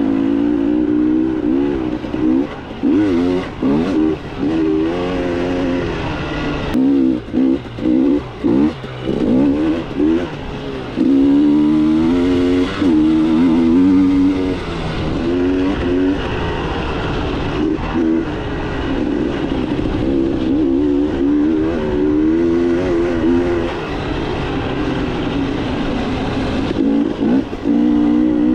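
KTM 300 two-stroke dirt bike engine being ridden, revving up and down over and over as the throttle is opened and chopped, with brief dips between bursts and a few steadier stretches of held throttle.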